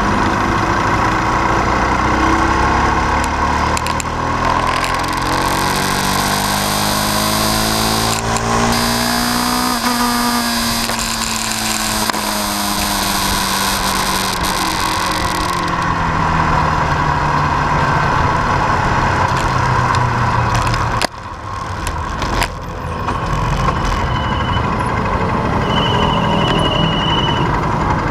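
Motor vehicle engine running, its pitch rising and falling. A high hiss lasts about ten seconds partway through.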